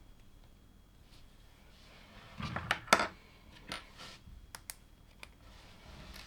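Plastic LEGO pieces being handled and clicked together: a quick flurry of clicks and rattles about two and a half seconds in, then scattered single clicks.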